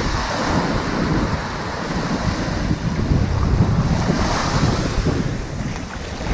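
Ocean surf washing onto a sandy beach, a continuous hiss that swells as a wave runs in about four seconds in, over a low, uneven rumble of wind buffeting the microphone.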